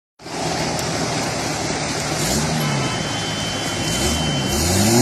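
Truck engine revving, its pitch rising and falling twice and climbing again near the end, over a steady rushing noise.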